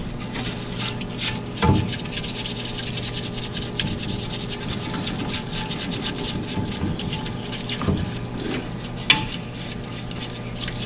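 Fast, continuous rubbing or scrubbing strokes over a steady low hum, with a few short knocks, the sharpest about nine seconds in.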